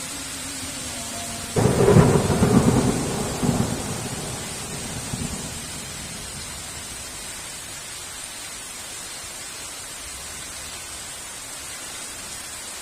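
A thunderclap breaks suddenly about a second and a half in and rumbles for a few seconds before dying away, over the steady hiss of heavy rain.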